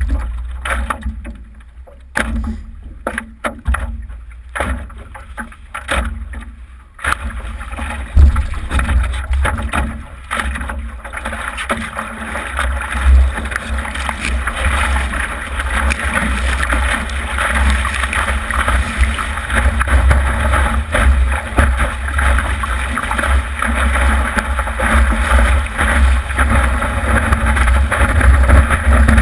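Wind buffeting the microphone: a heavy, gusting low rumble, with a rushing hiss that thickens and turns steady from about seven seconds in.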